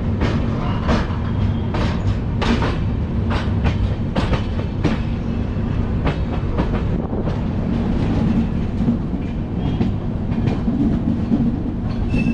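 Passenger train running on the track: a steady low rumble of the coach, broken by irregular sharp clicks and clunks of the wheels passing over rail joints and points, most frequent in the first few seconds.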